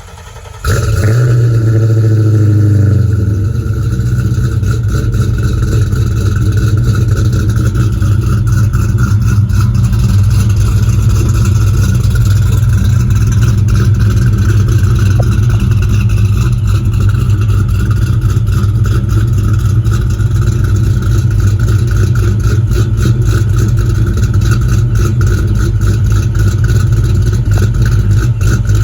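1995 Ford Mustang engine catching on a cold start. About a second in it comes to life with a flare of revs that drops back over the next couple of seconds. It then idles steadily.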